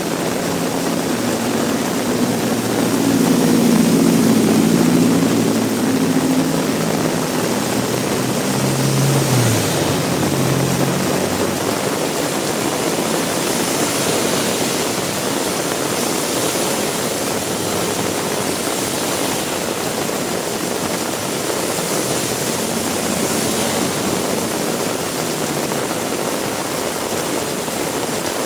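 Heavy rain falling steadily. A motor vehicle's engine passes close by in the first third, loudest about four seconds in and gone after about eleven seconds.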